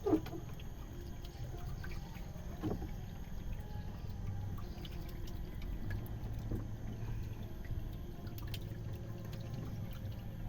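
River water splashing and trickling around a small boat being moored with a pole, with a low wind rumble and small knocks.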